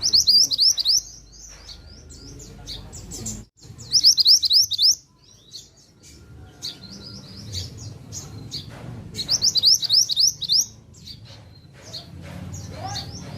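A mantenan songbird singing busily: bursts of rapid, high chirping notes, the loudest four bursts coming at the start, about four seconds in, around seven seconds and around nine to ten seconds, with softer calls between them.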